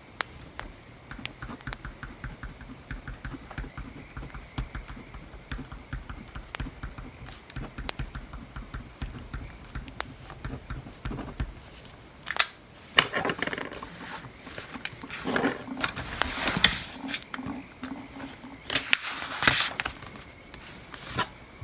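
Desk study sounds: a run of small ticks and scratches of pen or pencil on paper, then several louder paper rustles between about 12 and 20 seconds in, with a bonfire crackling underneath.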